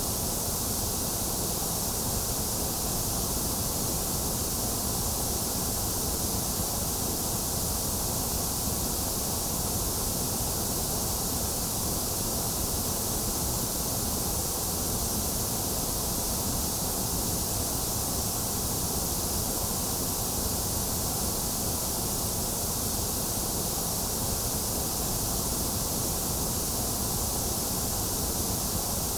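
Continuous white noise played as a baby sleep aid: an even, unchanging hiss, with less energy in the middle than in the highs and lows.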